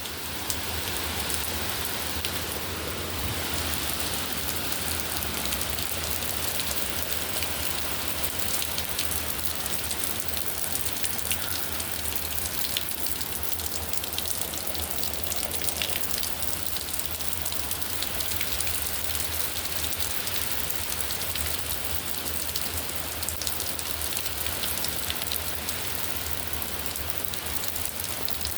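Heavy rain falling steadily, a dense even hiss of drops with fine scattered pattering.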